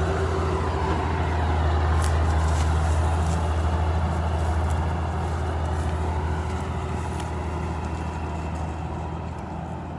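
Large diesel engine of a tractor or combine harvester running steadily with a deep, low drone. It fades gradually over the second half.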